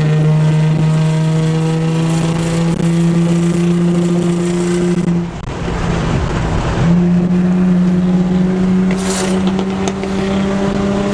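A car engine running at steady revs, a constant drone. About five seconds in the drone drops away for a second or so under a rushing noise, then comes back steady at a slightly higher pitch.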